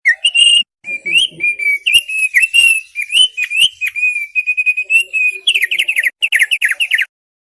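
An opior paruh tebal (thick-billed heleia) singing a varied song of whistled, gliding notes. It ends with a fast run of downward-slurred notes and then stops abruptly near the end.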